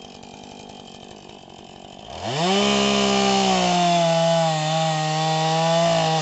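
Gas chainsaw idling, then revved sharply about two seconds in and held at high speed for about four seconds while cutting a tree limb, its pitch easing slightly and dropping near the end.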